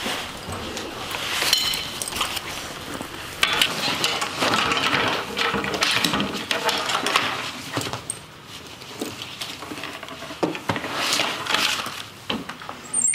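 Rummaging in a metal school locker: irregular clinks, knocks and rattles as things inside are shifted about and pulled out.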